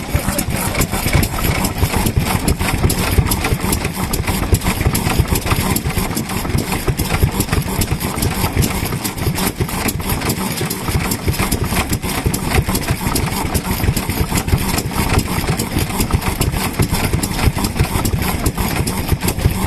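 Kubota AHB single-cylinder kerosene stationary engine running steadily, its exhaust giving a fast, even run of beats.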